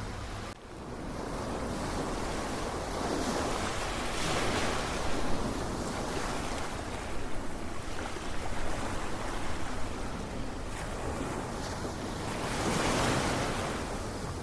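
Ocean surf: a steady wash of waves with no tones. It swells twice, once about four seconds in and again near the end.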